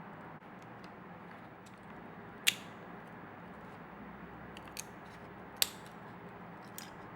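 Small parts and tools clicking as they are handled while a scale model motorcycle is assembled. There are two sharp clicks, one about two and a half seconds in and one about five and a half seconds in, and a few fainter ones, over a steady low hiss.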